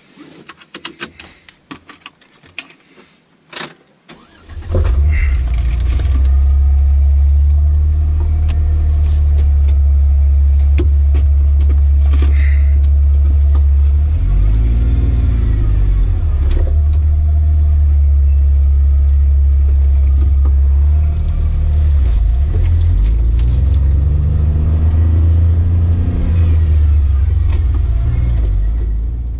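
Clicks and knocks of a seatbelt being buckled and movement in the driver's seat. About four and a half seconds in, the vehicle's engine starts and runs with a loud low rumble heard from inside the cab, its note rising and falling a few times as the vehicle is backed up and driven off.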